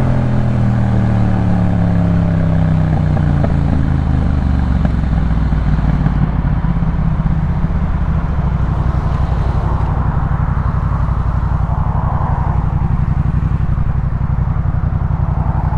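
Yamaha MT-07's 689 cc parallel-twin breathing through a Jeskap K4 full exhaust system: engine speed falls over the first few seconds as the bike slows, then settles into steady low-rpm running.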